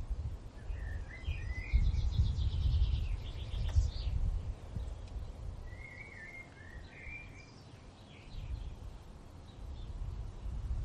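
Songbirds singing short warbling phrases and a rapid trill, over a low wind rumble that swells and eases in gusts.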